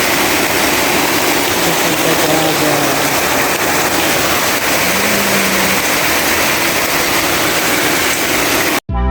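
Heavy typhoon rain pouring down steadily, cutting off suddenly near the end.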